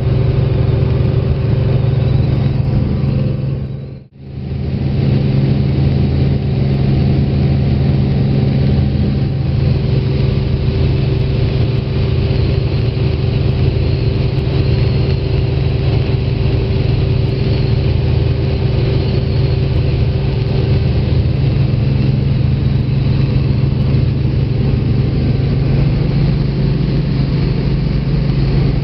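Helicopter engine and rotor noise, a loud steady drone. It drops away almost completely for an instant about four seconds in, then resumes as before.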